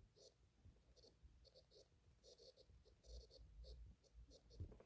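Faint writing sounds: a series of short, irregular pen strokes, very quiet.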